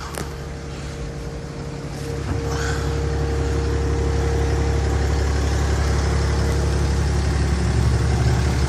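Cummins inline-six turbo diesel in a Ram 2500 idling with a steady low hum, growing louder about two seconds in, with a click near the start.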